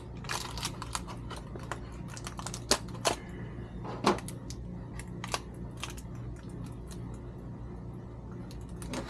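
Light, irregular clicks and taps of small plastic and metal parts being handled and set down while a transmission control module is taken apart, over a steady low electrical hum.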